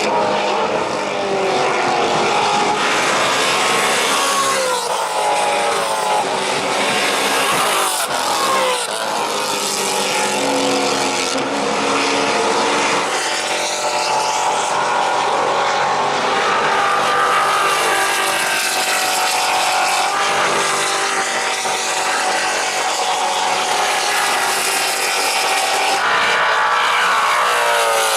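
Several Maserati GranTurismo MC Trofeo race cars' V8 engines at racing speed, one after another with no gap, their pitch climbing through the gears and dropping again as the cars shift and pass.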